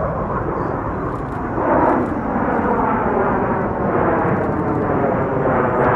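Jet noise from a Blue Angels F/A-18 Super Hornet flying past, a continuous rushing sound with a slowly shifting whoosh, growing a little louder toward the end.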